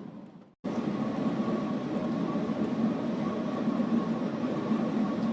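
Steady cabin noise inside a Shanghai maglev train at speed: a dense, even rushing hum with a thin steady whine above it. The sound dips to silence and snaps back in just under a second in.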